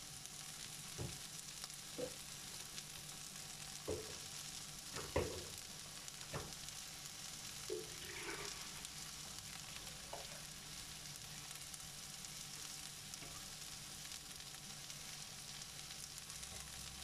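Potato, carrot and onion slices frying in a pan with a steady high sizzle. A few light knocks and clatters come through, the loudest about five seconds in.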